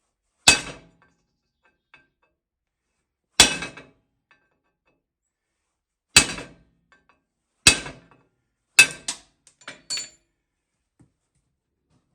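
Hammer blows on steel, knocking old wheel studs out of a Ford 9N tractor hub: six sharp, ringing strikes a second or more apart, coming faster toward the end, then a few lighter taps.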